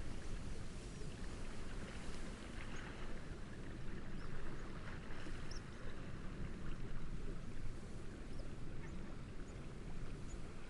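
Steady wind and gentle lapping waves, with short, high bird chirps and calls dotted through.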